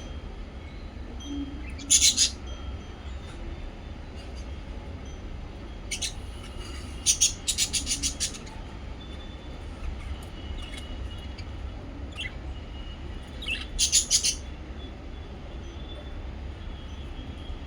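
Pet lovebirds and budgies chirping: loud, sharp bursts of calls about two seconds in, a cluster around six to eight seconds and again near fourteen seconds, with softer chirps between, over a steady low hum.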